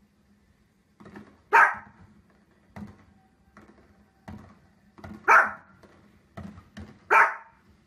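A small fluffy spitz-type dog barks three times, loud and sharp, about a second and a half, five seconds and seven seconds in, with fainter thumps between the barks.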